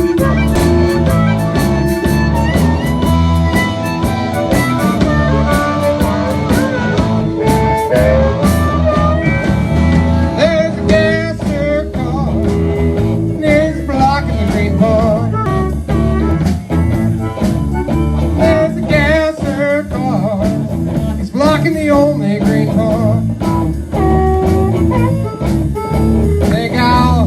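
Live blues band playing, with guitar, bass and drums keeping a steady groove; from about ten seconds in, a wavering lead melody comes in over the band.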